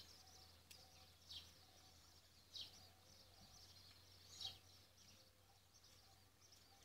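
Near silence, with a few faint, short high chirps falling in pitch, spaced a second or two apart, from a small bird.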